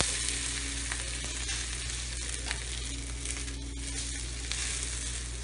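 Thick ragi (finger millet) roti sizzling steadily in a little oil on a cast-iron tawa, a constant hiss with a few faint crackles.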